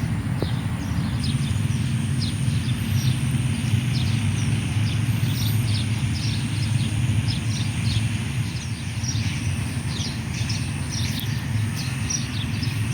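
Outdoor ambience: a steady low rumble with many short bird chirps scattered throughout, over a faint steady high-pitched whine.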